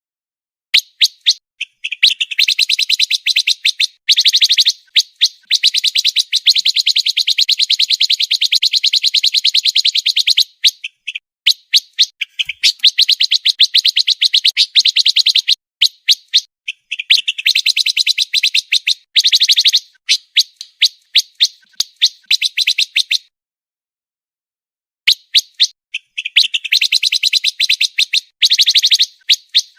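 Pancawarna songbird singing a fast, tightly packed song of rapid high chirping notes strung into long phrases. It pauses for about two seconds a little after twenty seconds in.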